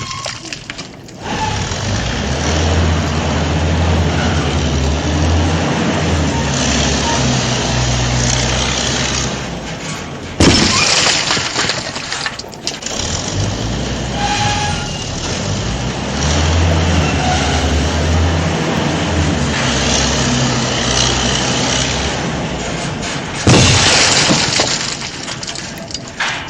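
Steady engine-like running sound: a low hum under a loud hiss that swells and eases in a repeating cycle. It is broken by sharp loud knocks, one about ten seconds in and one near the end.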